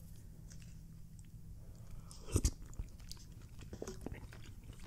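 Close-miked mouth sounds of a person eating a spoonful of chili from a paper cup: quiet chewing with small clicks, and one louder, sharper sound about two and a half seconds in.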